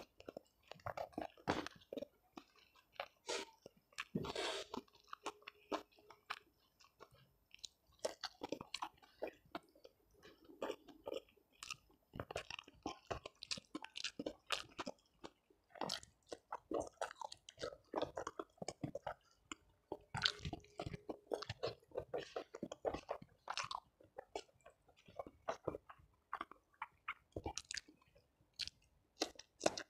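Close-miked chewing of a meal of rice, catfish and vegetables eaten by hand: an irregular run of short, wet and crunchy mouth sounds.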